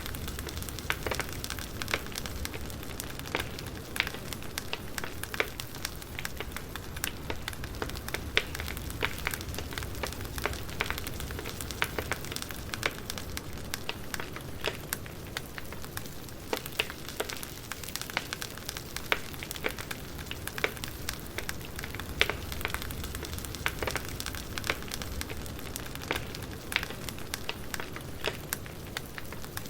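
Burning firewood crackling, with irregular sharp pops and snaps over a steady hiss.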